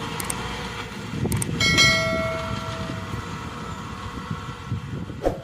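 Maxxi Bimo 102 combine harvester running with a low mechanical rumble and scattered knocks. About 1.7 s in there is a loud metal clang that rings on with a bell-like tone for about a second. Another knock comes near the end.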